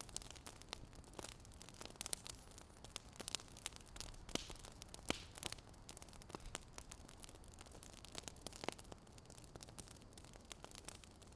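Fire crackling faintly: irregular sharp snaps and pops over a low steady hiss.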